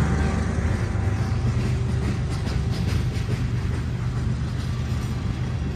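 Freight train of railroad tank cars rolling past close by: a steady low rumble of steel wheels on rail, with faint clicks of wheels over the rail joints around the middle.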